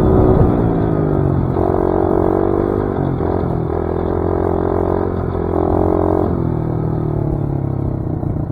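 Dirt bike engine running while riding, the revs rising and easing off; the pitch climbs hard about a second and a half in and again past the five-second mark.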